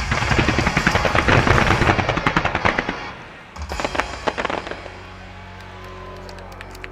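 Fireworks barrage: a dense, rapid string of bangs and crackles for about three seconds, a shorter cluster of bangs about a second later, then it dies away.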